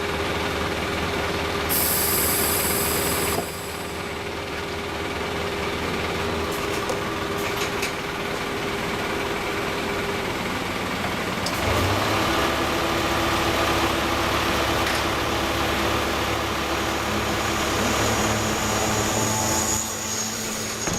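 A heavy engine running steadily, its note shifting about six and twelve seconds in, with a short high hiss about two seconds in.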